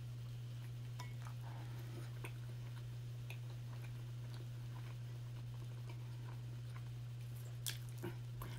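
A person chewing a mouthful of chili cheese dog close to the microphone, with faint wet mouth clicks and a couple of sharper ones near the end. A steady low hum runs underneath.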